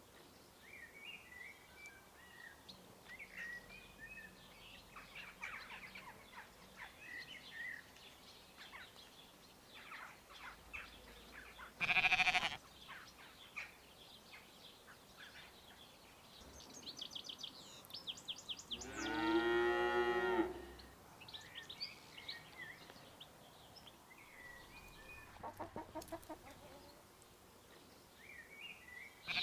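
Farmyard sound effects: small birds chirping on and off, a short loud animal call about twelve seconds in, and a cow's long moo about two-thirds of the way through.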